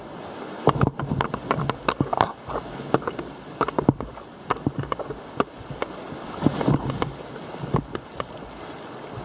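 A kayak going through river rapids: rushing, splashing water with many irregular knocks and splashes from paddle strokes and the hull.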